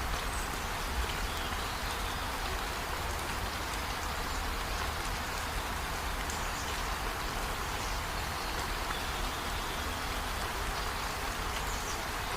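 Heavy rain falling steadily, an even hiss of drops with one light tap about a second in.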